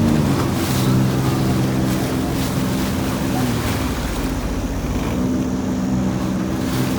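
A watercraft engine running steadily, its pitch easing down and back up a little, over wind and surf noise.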